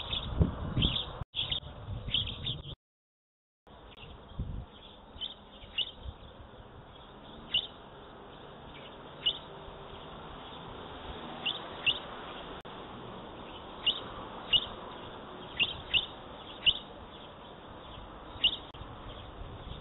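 Small birds chirping: short, sharp high chirps repeated at irregular intervals over a steady low outdoor background hiss, with some low rumbling thumps in the first few seconds.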